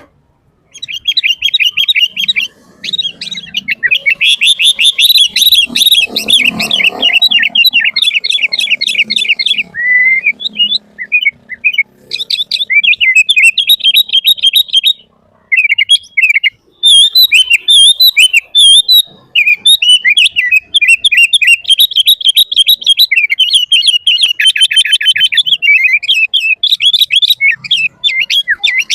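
Sooty-headed bulbul (kutilang) singing in long, busy runs of rapid high chirping notes, with a couple of brief pauses.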